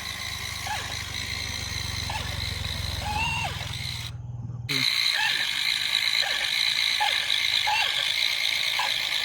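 Small electric motor and gears of a mini RC tractor and its working model rotavator running: a low hum for about four seconds, then, after a brief dropout, a louder and higher whir.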